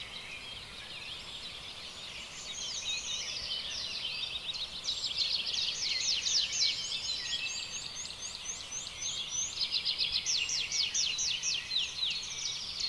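Many small birds chirping and singing together, a dense run of quick high chirps and trills that gets louder about three seconds in.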